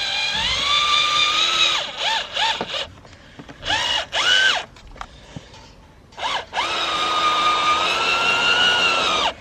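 Power drill driving screws to fix a cracked part: the motor whines up to speed and runs for about two seconds, gives a few short bursts, then runs again for about two and a half seconds before stopping near the end.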